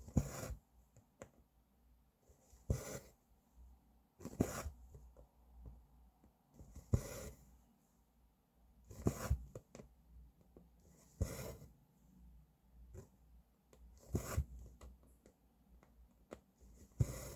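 Embroidery thread being pulled through cross-stitch fabric, a short rasping swish about every two to three seconds, eight pulls in all, with faint ticks of the needle between them.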